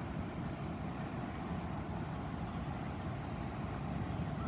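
Steady low rumble of a car engine idling, heard from inside the parked car.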